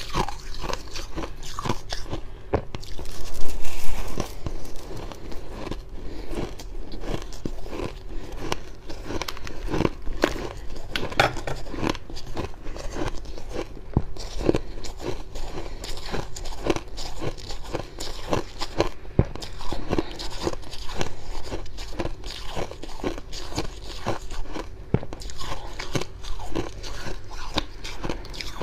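Close-miked chewing of crunchy freezer frost: continuous dry, crackly crunches with irregular bites, one louder bite about three seconds in.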